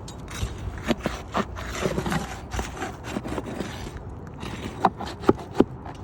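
Scraping and rustling from work on an asphalt shingle roof, broken by irregular sharp knocks, with three louder knocks close together near the end.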